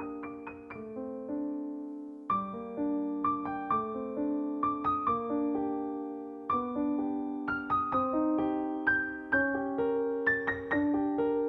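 Background piano music: soft notes and chords struck one after another, each ringing and fading.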